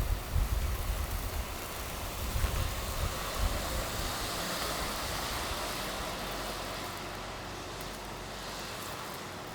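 A vehicle driving past on the street, its tyre and engine noise swelling about halfway through and then fading away. Low buffeting on the microphone in the first few seconds.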